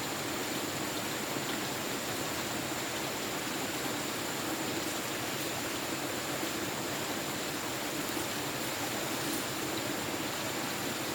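Steady, even rushing of running water, with a thin high-pitched tone held over it.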